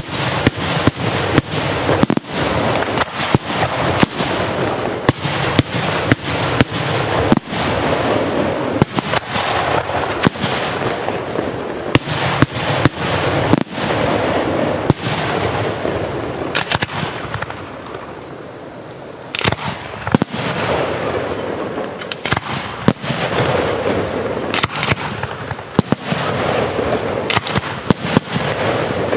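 Aerial firework shells bursting close overhead in rapid succession: a dense run of sharp bangs over a steady noisy rush. The barrage thins for a couple of seconds past the middle, then picks up again with a loud bang.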